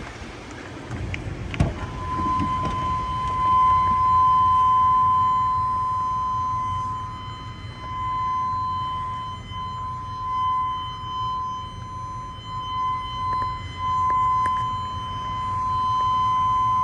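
A steady, high electronic tone starts about two seconds in and holds, over a low rumble.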